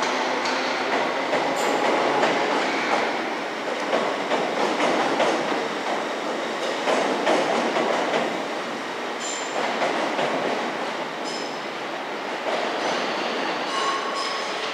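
Electric passenger train moving slowly through the station: a steady rumble with wheels clicking over rail joints. Brief high wheel squeals come about two-thirds of the way in and again near the end.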